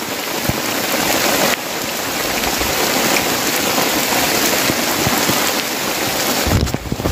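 Rain falling steadily and loudly, a little heavier from about a second and a half in. Near the end a low rumble joins it.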